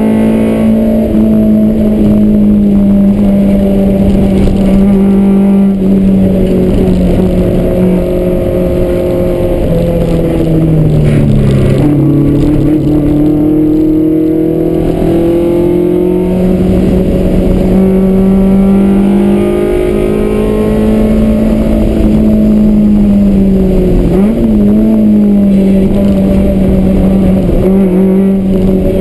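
Toyota AE86's engine heard from inside the cabin under hard driving on a race track. The engine note holds mostly steady, dropping in pitch about eleven seconds in and dipping again briefly around twenty-four seconds before climbing back.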